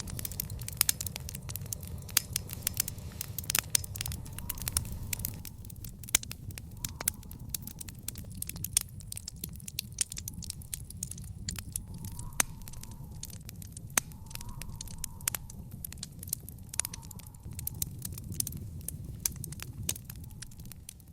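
Wood fire in an outdoor fire pit crackling, with frequent sharp pops of varying loudness over a steady low rumble.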